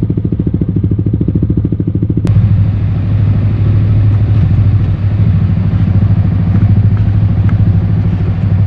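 Yamaha XSR155's single-cylinder engine running through an aftermarket full exhaust system, idling with an even pulsing beat. About two seconds in it changes abruptly to a louder, steadier run.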